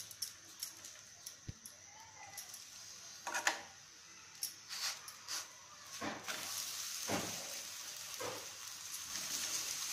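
Ghee sizzling under an aloo paratha frying on a hot tawa, with a metal spoon scraping and tapping now and then as it spreads the ghee. The sizzle grows louder about six seconds in.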